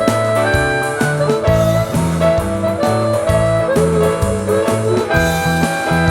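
Blues-rock band playing an instrumental passage: a lead guitar line with bent, sliding notes over a walking bass and steady drums.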